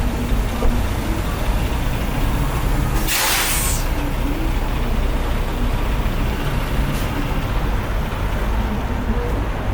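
Semi truck diesel engine idling steadily. About three seconds in, a sharp hiss of air from the truck's air brakes lasts just under a second.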